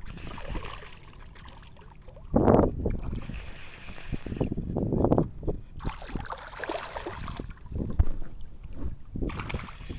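Water splashing and sloshing around a fishing kayak in irregular surges, with a sharp knock on the boat about eight seconds in.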